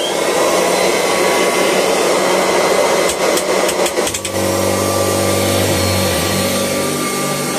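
1984 Kirby Heritage 2 upright vacuum switched on, its motor whining up to speed and running loudly. About three to four seconds in there are a few rattling clicks, after which the running settles into a steadier, lower hum.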